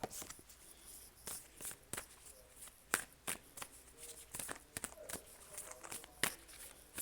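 Oracle cards being shuffled and handled: a run of irregular, sharp card clicks and flicks.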